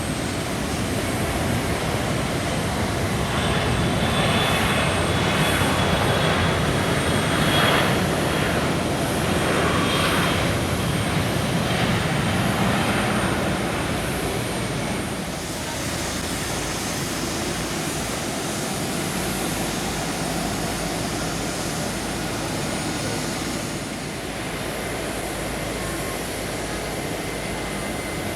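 Boeing 777-300's twin Rolls-Royce Trent 800 turbofan engines running, a loud jet rush with a thin high whine. The sound is loudest through the first half and eases to a lower, steadier level after the middle.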